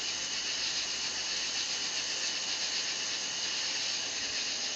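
A steady chorus of night insects chirring, high-pitched and unbroken.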